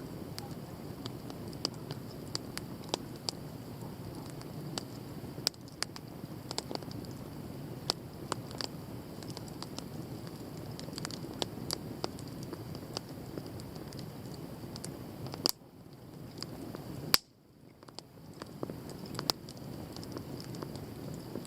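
Wood bonfire burning: a steady low rush of flame with frequent sharp crackles and pops. The sound briefly drops away twice, about two-thirds of the way through.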